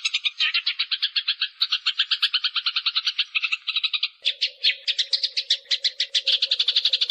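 Eurasian tree sparrows (burung gereja) fighting, giving a fast, unbroken chatter of harsh chirps at about ten a second. A faint low hum joins about four seconds in.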